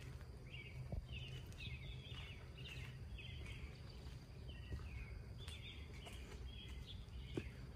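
Small birds chirping over and over in short, slightly falling notes, over a low steady outdoor rumble.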